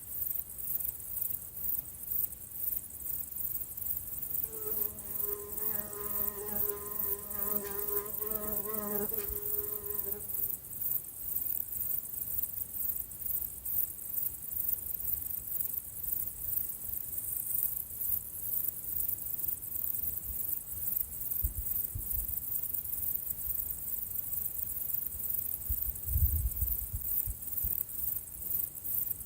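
Outdoor insect chorus: a continuous, rapidly pulsing high-pitched trill. A fly buzzes past for about five seconds, starting about five seconds in, and there is a brief low rumble near the end.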